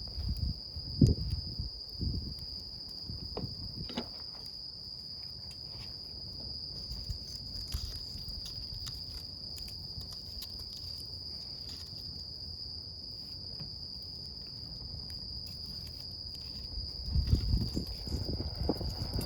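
Campfire crackling with scattered small pops, under a steady high chirring of crickets. There are a few low thumps about a second in and again near the end.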